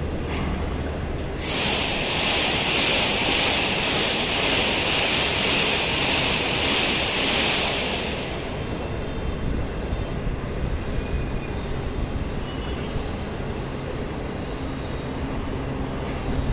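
Passenger train of conventional coaches rolling slowly past, a steady low rumble of wheels on track. A loud hiss comes in about a second and a half in and dies away about halfway through.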